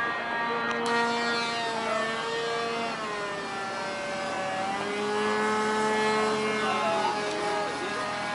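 RC model airplane's motor running in flight: a steady whining hum whose pitch drifts slowly, dipping a little about halfway through.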